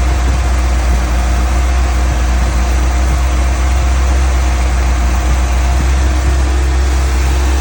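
A 1984 car's engine idling steadily at full operating temperature, a continuous low drone. It is being held at idle while the coolant temperature climbs toward the point where the radiator fan's temperature switch should cut in; that switch is judged to come on too late.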